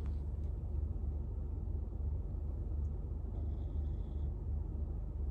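Sleeping dog snoring, a low sound that swells and eases with its breathing.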